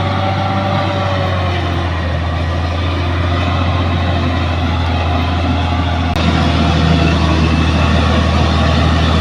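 Heavy bulldozer diesel engine running steadily under load, a deep continuous drone. About six seconds in there is a brief click and it carries on a little louder.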